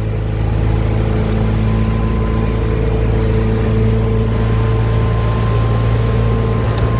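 The engine of a 31 ft Wellcraft cabin boat running at a steady pitch while the boat is under way on throttle. A thin steady whine joins it about a second and a half in.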